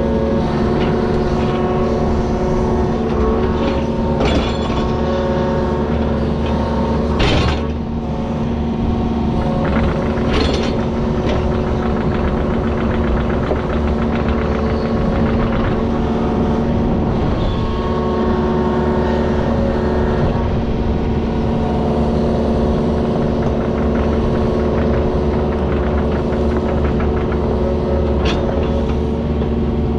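Diesel engine of a digging machine running steadily under light load, with a few sharp knocks and scrapes of the bucket on rock and dirt.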